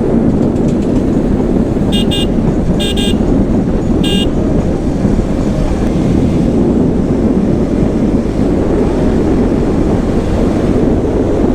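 A vehicle horn honking three short times, about two, three and four seconds in, over the steady rush of wind and road noise from riding a motorcycle in traffic.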